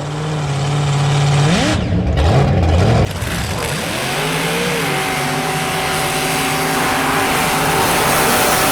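Mega truck engine revving hard, its pitch jumping up and down about two seconds in, then held at a steady high speed over a rising hiss of spraying mud and spinning tires.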